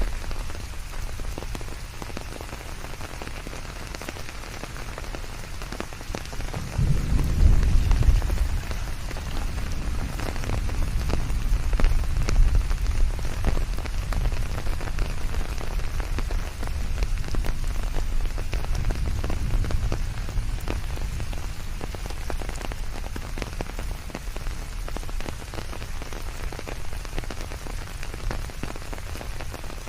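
Steady rain falling on leaves, many separate drops ticking over an even hiss. A low rumble swells up about seven seconds in, the loudest moment, and comes back more weakly twice later.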